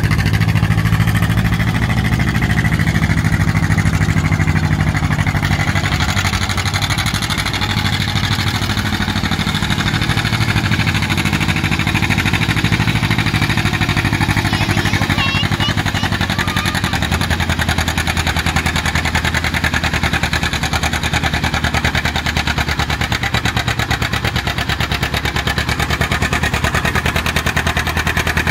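Antique farm tractor engine running loudly and steadily, its note shifting about six seconds in and again around seventeen seconds.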